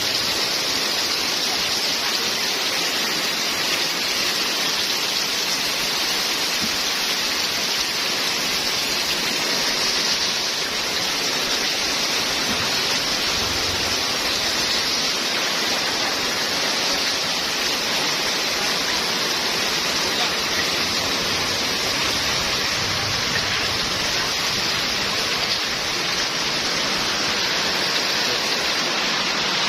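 Heavy rain pouring down, a dense steady hiss that holds at an even level throughout.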